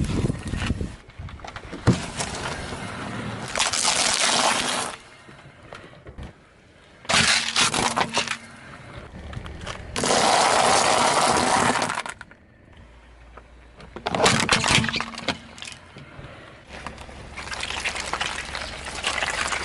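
Objects crunching, cracking and breaking as they are crushed under a vehicle's tyres, in about half a dozen separate noisy bursts of a second or two each.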